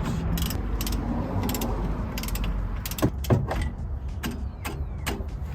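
Socket ratchet clicking in short strokes as lug or hub bolts are run in, with a few heavier metal knocks about three seconds in and again near the end.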